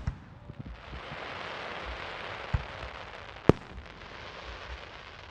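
Fireworks going off: a crackling hiss that lasts a few seconds, with a dull thump and then one sharp loud bang about three and a half seconds in.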